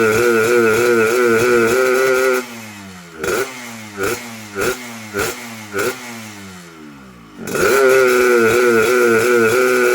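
Yamaha RX Special two-stroke single-cylinder motorcycle engine with a PWK carburettor, revved and held with a raspy, warbling 'snoring' note. A couple of seconds in it drops off, gets five quick throttle blips, and about 7.5 s in is revved up and held again.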